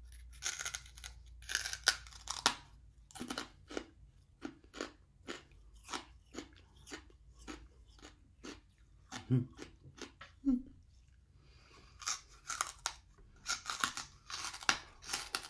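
A lump of coal being bitten and chewed: many sharp, irregular crunches.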